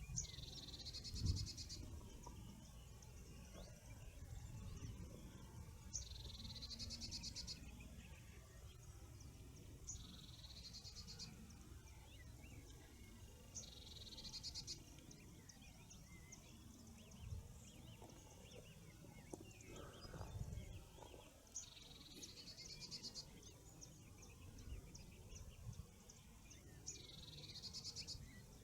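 A songbird singing the same short, high phrase over and over, six times, each phrase ending in a fast trill, with pauses of a few seconds between them. A faint low rumble runs underneath.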